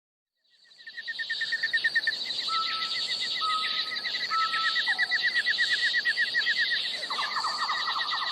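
Several wild birds calling together: a fast run of repeated chirps, a few short, even whistles, and a rapid trill that joins near the end. It begins after a moment of silence.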